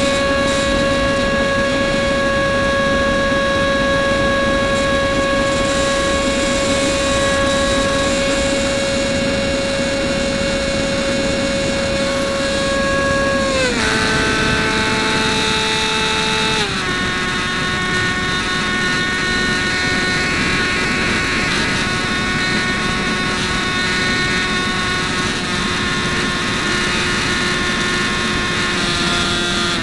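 Starmax F-16's 70 mm electric ducted fan whining steadily over a rush of air at the onboard camera. The whine steps down in pitch twice, about 13 and 16 seconds in, as the fan slows, then holds steady at the lower pitch.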